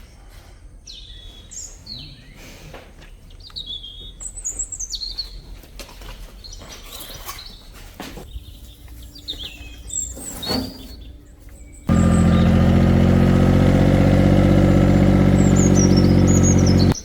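Birds chirping in short, falling calls, with a few faint knocks. About twelve seconds in, a much louder steady drone with a buzzing, many-toned sound starts suddenly and runs for about five seconds before cutting off abruptly, while the birds go on above it.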